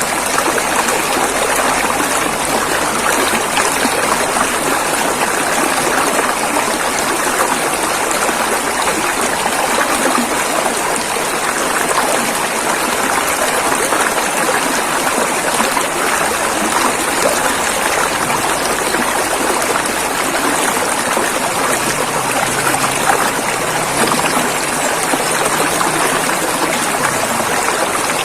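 River water flowing steadily over rocks, a continuous rushing with fine splashing and gurgling detail.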